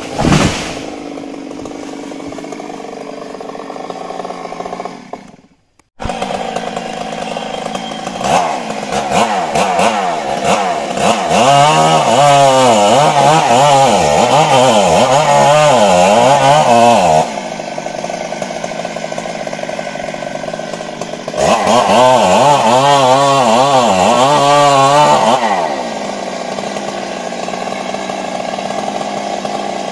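Stihl MS 382 two-stroke chainsaw running. It is revved hard in two long spells, its pitch wavering up and down under load, and drops back to a lower, steadier run between them. A sharp knock comes at the very start, and the sound breaks off briefly about five seconds in.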